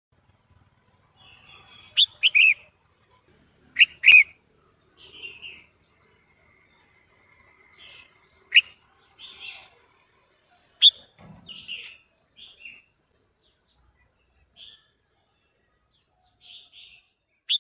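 Female red-whiskered bulbul giving short, sharp chirping calls at irregular intervals, several of them in quick pairs, with quieter chatter between.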